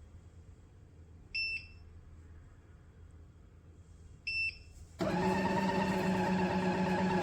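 Two short electronic beeps from the Café Affetto espresso machine, about three seconds apart, then the machine starts running with a loud, steady motor hum about five seconds in.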